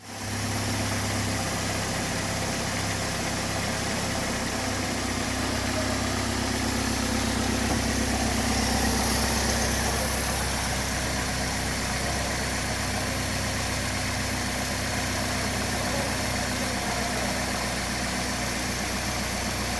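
2009 Chevy Cobalt's 2.2-litre four-cylinder engine idling steadily during a running test at 114,000 miles, with a slight rise in level about eight to ten seconds in.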